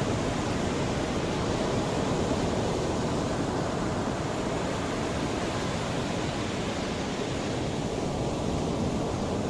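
Mediterranean sea waves washing continuously onto the shore, a steady rushing wash with little rise and fall.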